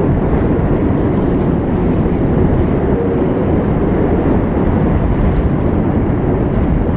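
Steady wind buffeting the microphone over water rushing along the hulls of a small catamaran sailing upwind.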